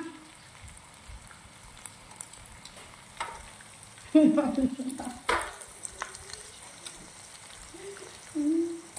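Insects frying in a pan, sizzling steadily with light clicks of stirring. Brief wordless vocal sounds come about four and five seconds in and again near the end.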